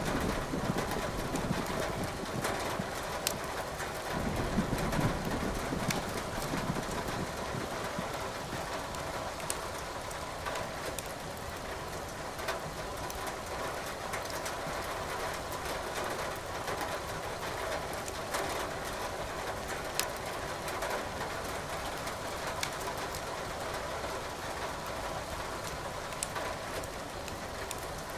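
Wood fire crackling in a fireplace, with sharp pops every few seconds, over the steady hiss of rain. A low rolling rumble of thunder sounds in the first few seconds and fades away.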